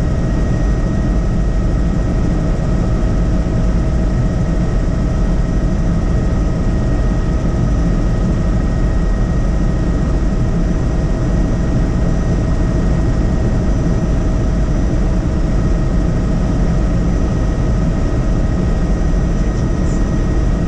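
Helicopter in flight: a steady low drone of rotor and engine with a thin steady whine above it.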